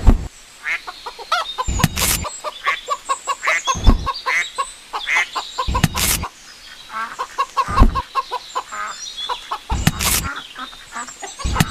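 Birds calling in many short, repeated notes, with a loud sharp knock about every two seconds.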